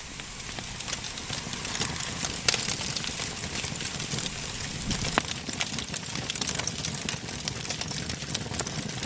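Campfire burning with a steady hiss and frequent sharp crackles and pops, damp branches on top drying out as they catch.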